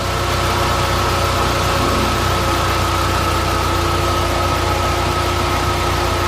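Volkswagen Bora GLI's 2.0-litre turbo four-cylinder engine idling steadily, a low hum with a steady high tone over it, on its freshly replaced timing chain, tensioner and camshafts. No chain noise, which used to sound like collapsed lifters, is heard: the fault is cured.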